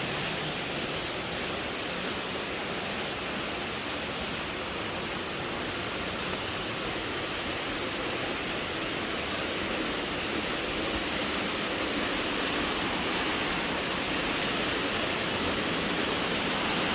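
Steady rushing roar of a large waterfall, growing a little louder toward the end.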